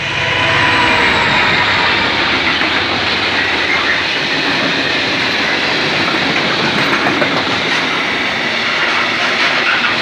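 Freight train passing close by: the diesel locomotive's engine passes in the first second, then a long string of flat wagons rolls past with steady loud wheel-on-rail noise.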